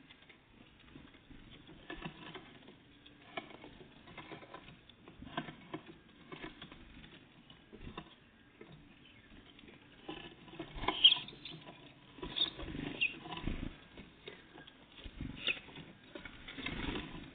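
Small birds, great tits and blue tits, feeding: irregular tapping, pecking and scrabbling at seed, with a few brief high chirps in the second half.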